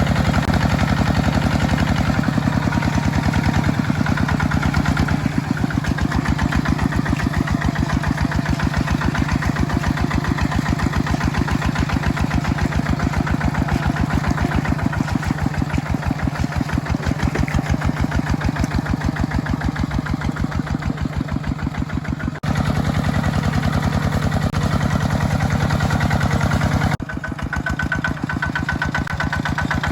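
Mini tractor's engine running steadily with a fast, even chugging while it plows a wet rice field. The sound changes abruptly twice, about two-thirds of the way in and again near the end.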